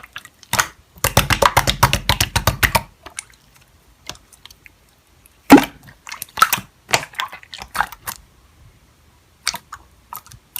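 Slime being pressed and worked in the hands, giving sharp sticky clicks and pops: a quick, dense run lasting about two seconds, then scattered single clicks in small groups.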